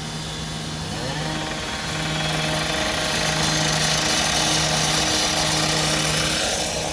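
Gas-powered rotary saw revving up about a second in and running at full speed for several seconds, cutting, over a steady engine hum.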